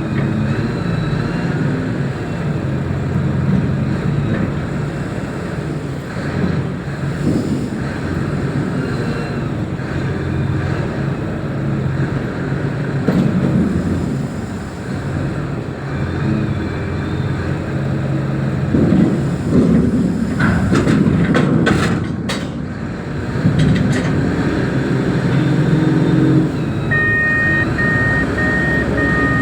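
Reach stacker's diesel engine running and working up and down in pitch, with a few sharp knocks about two-thirds of the way through. Near the end a reversing alarm starts beeping steadily.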